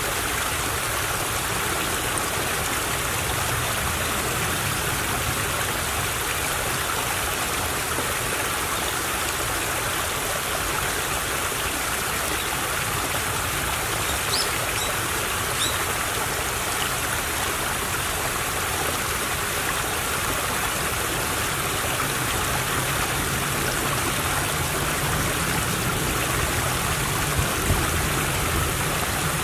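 A small stream running steadily, its water babbling and trickling.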